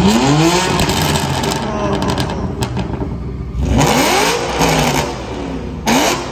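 High-performance car engines revving hard three times, at the start, a little past halfway and near the end. Each rev climbs in pitch and falls back with a loud rasp from the exhaust.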